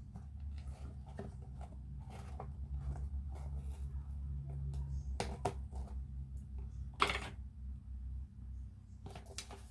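A cardboard shipping box being cut open and handled: scattered short scrapes, taps and rustles, with one sharper knock about seven seconds in, over a low steady hum.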